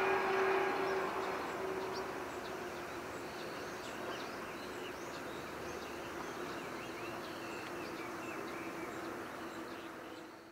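A 115-series electric train receding, its running noise and steady hum fading over the first couple of seconds, leaving a level background with many short bird chirps.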